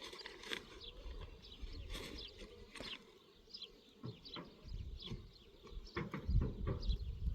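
Small birds chirping, many short high calls that fall in pitch, over a low rumble that grows louder near the end.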